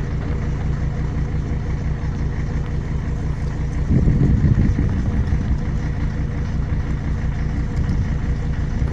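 Old Mercedes five-cylinder diesel engine idling steadily, with a brief louder swell about four seconds in.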